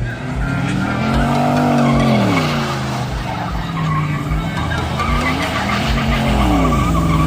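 A car's engine revving hard, the revs climbing and falling twice as the car slides, with skidding tyre noise under it.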